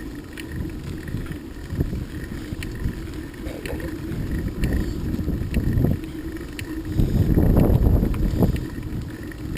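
Wind buffeting the microphone while moving, a low uneven rumble that swells about seven seconds in, with a few light clicks.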